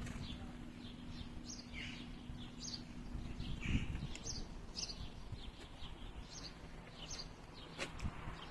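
Small birds chirping: short high chirps, about two a second, some of them sliding downward.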